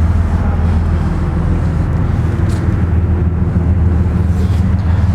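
A steady low engine drone, with no change in pitch or level.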